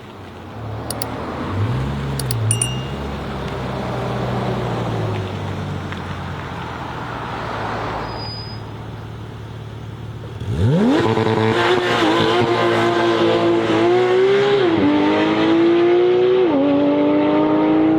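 A car engine running for about ten seconds, then suddenly revving hard into full acceleration. The pitch climbs steadily and drops twice as it shifts up through the gears.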